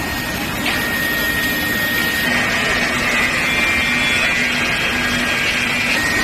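Induction forging furnace running in a steel-bar heating line: a steady noisy hum with a high, steady whine. A second, higher whine joins about two seconds in and stops near the end.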